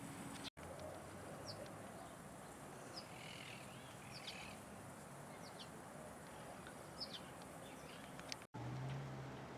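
Small birds chirping: brief, high, scattered calls over a steady faint outdoor hiss. The sound drops out for an instant twice, about half a second in and near the end.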